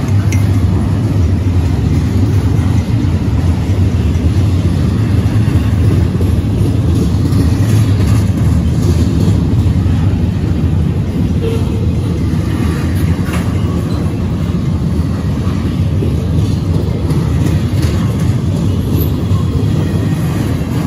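Double-stack intermodal freight train's well cars rolling past close by: a loud, steady rumble of steel wheels on rail, with a few light clicks from the cars partway through.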